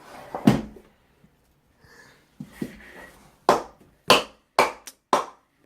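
A single loud thump about half a second in, then from about three and a half seconds a run of hard knocks or bangs, about two a second, each dying away quickly.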